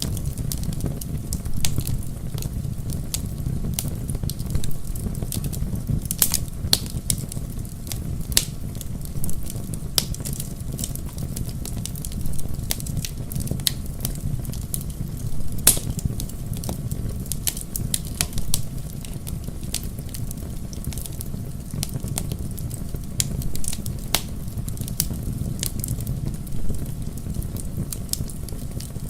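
Wood bonfire burning: the logs crackle and pop in irregular sharp snaps over a low, steady rush of flame, with one louder pop a little past halfway.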